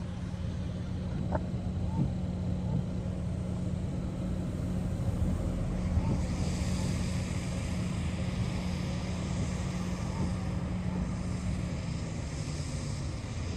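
Engine and road noise of a moving vehicle heard from inside the cabin: a steady low drone, with a higher hiss joining about six seconds in.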